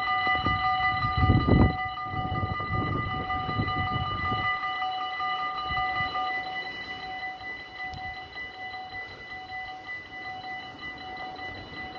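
Dutch level-crossing bells ring steadily, the electronic crossing bells of an automatic half-barrier crossing. A Sprinter Lighttrain (SLT) electric train rumbles over the crossing underneath them, loudest about a second and a half in, and its rumble fades away about four and a half seconds in. One of the bell tones drops out about six seconds in.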